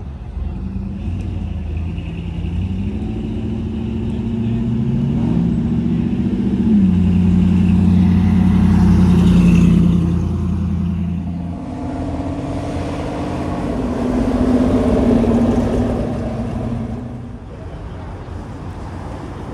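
Classic car engines running as the cars drive past, the engine note rising and then dropping about seven seconds in, and the sound swelling twice as cars pass close, about halfway through and again about three quarters of the way through.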